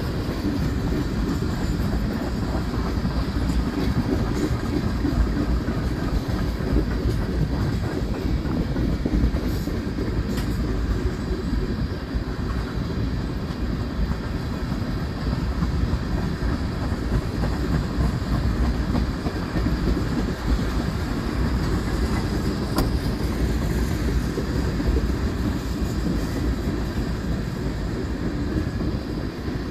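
Freight train of tank cars rolling past: a steady rumble of steel wheels on the rails, with a few faint clicks from the wheelsets.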